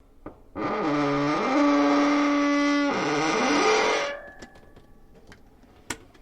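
A long, pitched metal creak, a groaning squeal. It slides down in pitch, holds steady, then bends down and back up before stopping about four seconds in. A few faint metallic clicks follow.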